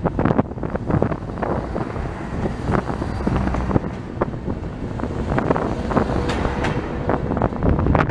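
Train wheels clattering and knocking over the rails, with a steady rumble and wind rushing at an open carriage window, as a RegioJet multiple unit runs past close by on the next track.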